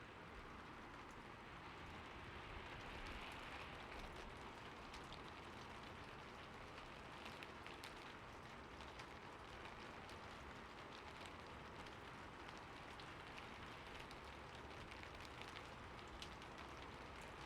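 Steady soft rain falling on a surface, a continuous hiss with scattered individual drop ticks.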